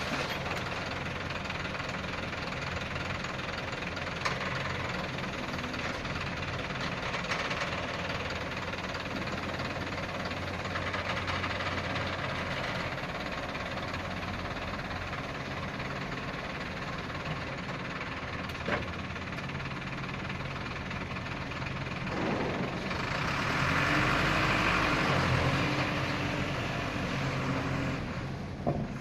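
Dump truck engine idling steadily, then picking up with more engine noise about three-quarters of the way through before settling again.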